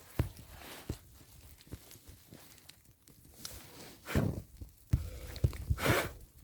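Rustling and scuffing with several short knocks and thumps, heaviest in the second half.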